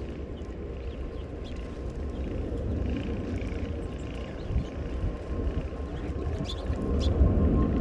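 A steady low outdoor rumble with a few faint, short bird chirps scattered through it, growing a little louder toward the end.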